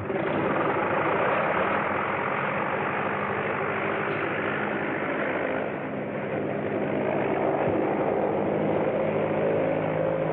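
An engine running steadily at speed: a continuous loud drone with several steady tones under it, dipping slightly partway through. The sound is muffled, as on an old film soundtrack.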